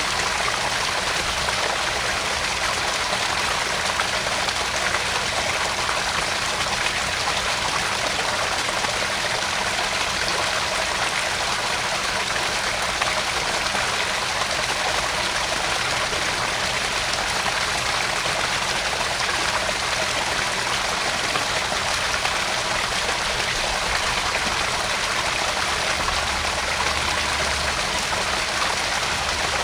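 Small garden pond waterfall splashing and trickling steadily into the pond.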